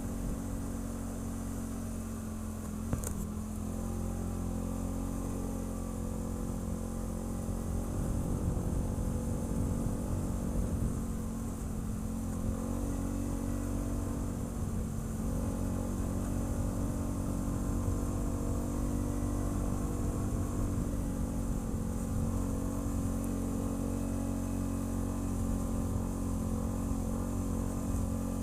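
ATV engine running steadily while riding, its note wavering and swelling a little with the throttle partway through. A single sharp click about three seconds in.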